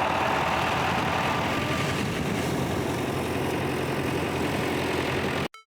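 Pit bike engine idling steadily. It cuts off abruptly near the end, replaced by short electronic beeps.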